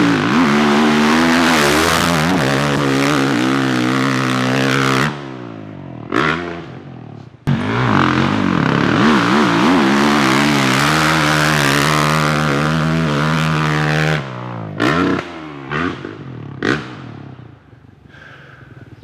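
Dirt bike engine revving hard, its pitch rising and falling unevenly under load. It drops away about five seconds in, comes back loud at about seven and a half seconds for another six or so seconds, then fades into a few short throttle blips.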